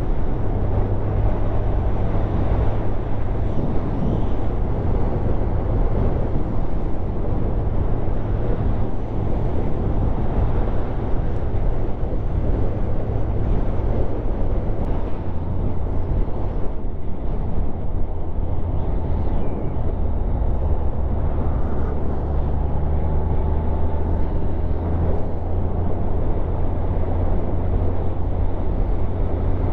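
Motorcycle riding along at steady speed: the engine's steady drone under a heavy rush of wind and road noise. The engine note dips and settles slightly lower a little past halfway, as at a gear change or easing off.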